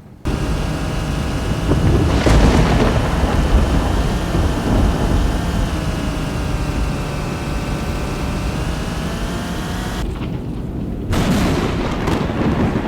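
Thunder rumbling through a storm with rain noise. A steady droning tone runs underneath, sagging slightly in pitch and coming back. Both cut off abruptly about ten seconds in, and another loud rumble surges up a second later.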